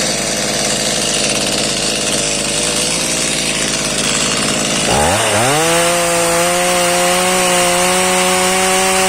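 Stihl MS 210 C two-stroke chainsaw engine running at a low, uneven idle, then throttled up about five seconds in, rising in pitch and holding a steady high-revving whine.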